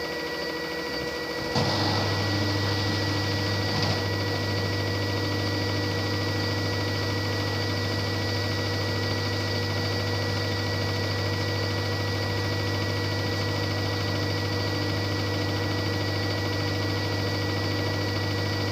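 LG washing machine spinning at 800 rpm: a steady mechanical hum with a thin, steady high tone over it. The low hum is absent at first and comes back with a click about a second and a half in, followed by another click near four seconds.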